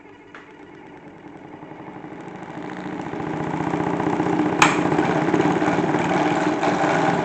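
Homemade toy washing machine built from a salad spinner, its motor spinning up with a fast rattle that grows louder over the first four seconds or so, then runs steadily at full speed. A sharp click sounds about halfway through.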